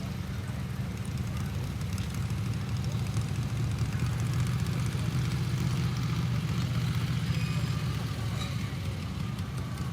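Engine of a pulling garden tractor running steadily, growing louder through the middle and easing off near the end.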